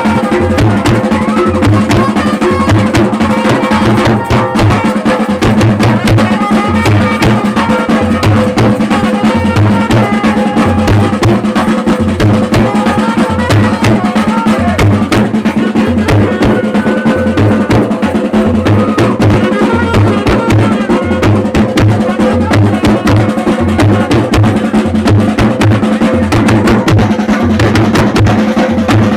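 Chhattisgarhi traditional baaja band playing Gauri Gaura festival music: drums beat a steady repeating rhythm under a held drone, with a melody line above.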